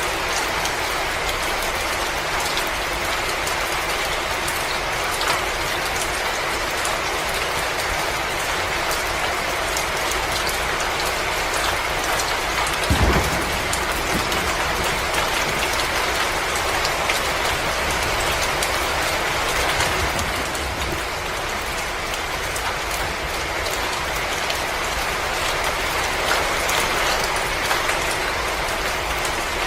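Wood fire crackling in a fireplace: a steady hiss dotted with many small sharp pops, and one heavier, deeper pop about 13 seconds in.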